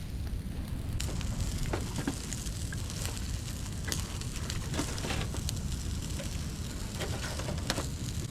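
Wood fire crackling, with irregular sharp pops from about a second in over a low steady rumble.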